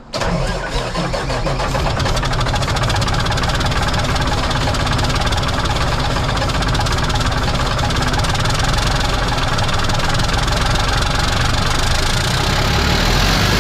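Old Mack R model truck's diesel engine being cranked over on its starter in one long, continuous start attempt, beginning abruptly. The engine has sat for years, and fuel is not reaching it from the tank: the owner suspects the pickup, a plugged filter or a stuck injection pump.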